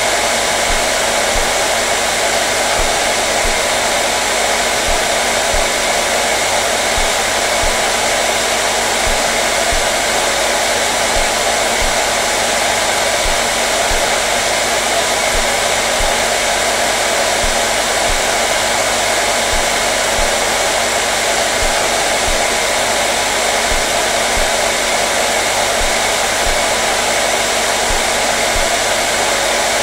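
Hair dryer running continuously at a steady speed: an even rush of blown air with a constant motor hum, no change in pitch or level.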